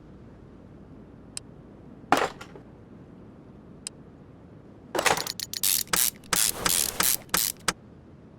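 A hand ratchet wrench clicking through a quick run of about nine strokes, starting about five seconds in. Before that come a single faint click, a short metallic clatter and a tick.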